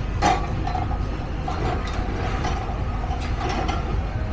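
Metallic clanking and knocking over a steady low rumble, with the loudest knock about a quarter second in and smaller clatters later.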